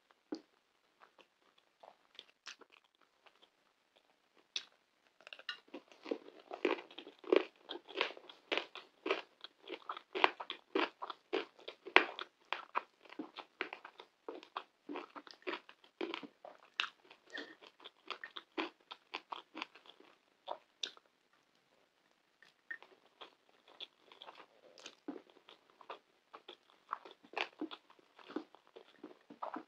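Close-miked chewing and biting of food, with wet mouth sounds and crisp crunches from a mouthful of pan kebab, saffron rice and potato tahdig. The sounds start sparse, become steady and dense about five seconds in, pause briefly about three-quarters of the way through, then resume.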